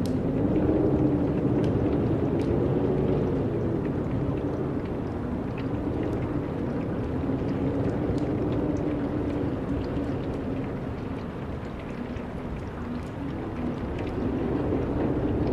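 Wind blowing in gusts, with a low wavering moan that rises and falls. The gusts ease off for a few seconds late on, then build again.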